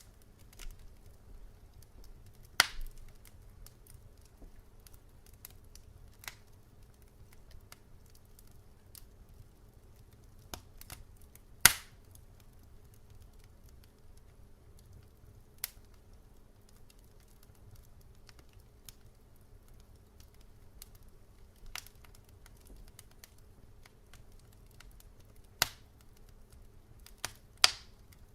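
Logs burning in a fireplace, crackling with sparse sharp pops every few seconds, the loudest about twelve seconds in, over a faint steady low hum.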